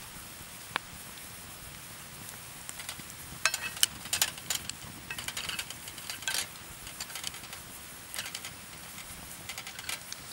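Food frying in a skillet over a wood fire: a steady sizzle broken by irregular sharp pops and crackles, with a cluster of louder pops in the middle.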